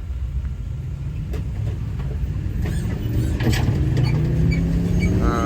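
A car engine running with a low, steady drone that rises slightly in pitch toward the end, with faint voices in the background.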